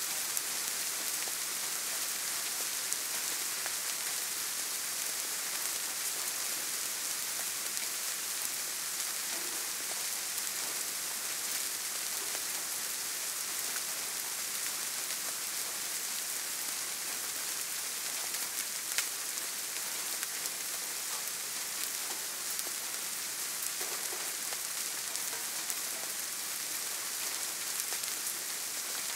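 Steady soft rain: an even hiss with the odd louder drop ticking through it, one sharper tick about two-thirds of the way in.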